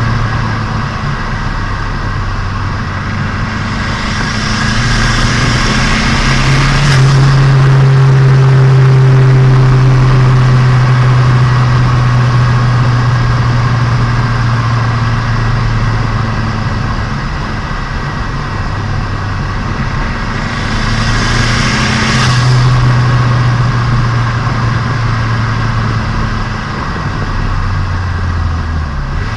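Turbocharged Nissan Micra engine running in, heard onboard while driving. Twice, about four seconds in and again about twenty seconds in, a hissing rush builds for a couple of seconds and then cuts off sharply, with the engine note changing as it stops.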